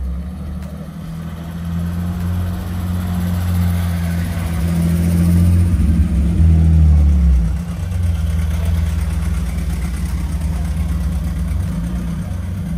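Car engine running with a deep, steady note that builds in loudness to a peak about six to seven seconds in, drops in pitch, then carries on steadily before picking up again near the end.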